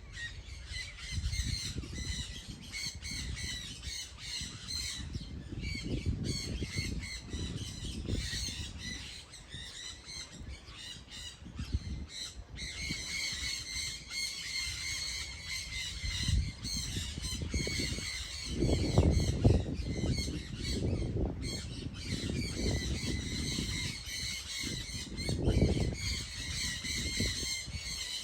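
Many birds squawking and chattering without pause, harsh rapid calls overlapping in a dense din. Under it runs a low rumble that swells and fades, loudest about two-thirds of the way through and again near the end.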